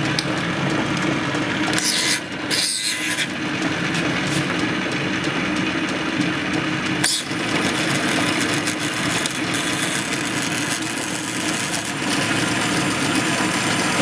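Juki LK-1852 bartack industrial sewing machine running, its needle mechanism chattering rapidly over a steady motor hum. There is a brief change in the noise about two to three seconds in and a sharp click about seven seconds in.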